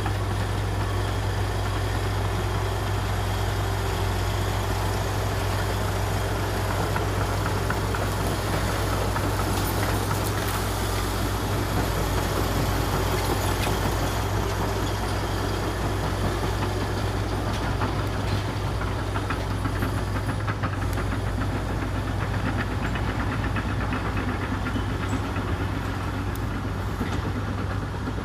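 Komatsu D61EX bulldozer's diesel engine running steadily at work, with a low, even drone and scattered light clanks from the machine and its tracks.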